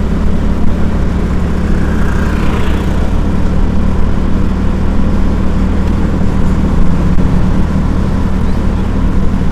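Steady running noise of a road vehicle on the move: a constant low engine hum with road and wind noise on an action camera's microphone.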